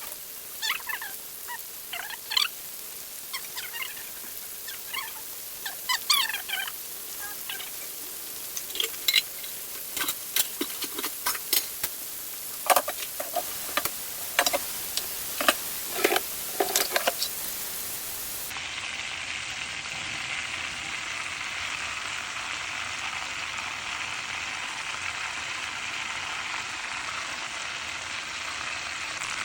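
Battered, floured chicken drumsticks frying in hot oil. Irregular pops, crackles and small squeaks give way abruptly, about two-thirds of the way in, to a steady sizzle.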